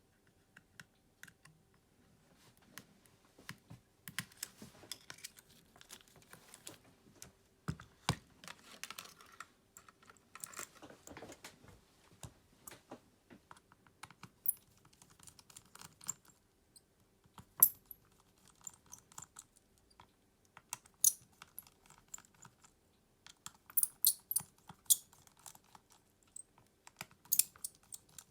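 Small hand tools and phone parts clicking, tapping and scraping against a smartphone while it is taken apart, in irregular bursts with a few sharper clicks in the second half.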